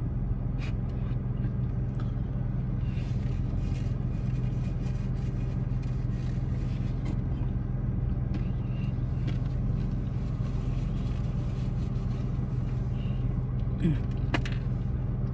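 Steady low hum of a car's engine idling, heard inside the cabin, with a few faint clicks as food is handled.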